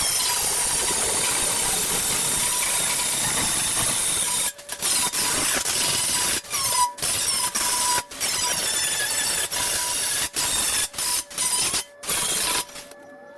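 Power grinder grinding down fresh welds on car body sheet metal: a loud, hissing grind with a steady whine, cutting out and starting again abruptly several times.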